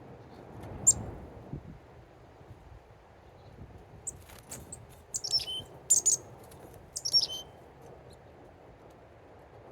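Small birds chirping: one sharp high chirp about a second in, then a run of short, quick chirps with downward-sliding notes in the middle, over a faint low background rumble.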